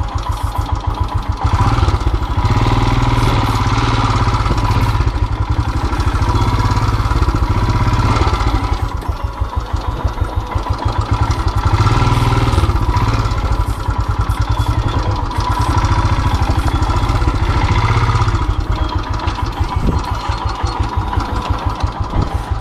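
Single-cylinder Royal Enfield motorcycle engine running with a fast, even beat while the bike is ridden, its loudness rising and falling as the throttle opens and closes.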